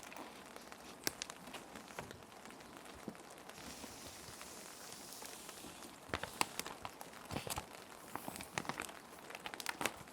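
Plastic sheet protectors crinkling and clicking as paper sheets are slid into them, with a smooth sliding hiss about halfway through and denser crinkles in the second half, over a steady bed of rain.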